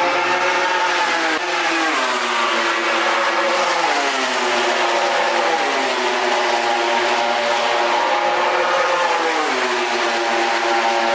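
A MotoGP racing motorcycle engine running at high revs. Its pitch falls in steps three times, about a second and a half in, about four seconds in and near the end, and holds or climbs slightly in between.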